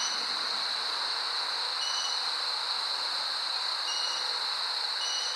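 Steady high-pitched insect chorus, a cricket-like trill that never breaks, with faint short chirps about every two seconds.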